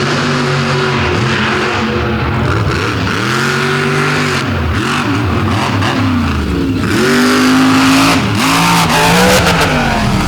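Monster truck engine revving hard on a drag run, its pitch rising and falling several times as the throttle is worked, loudest about seven to nine seconds in.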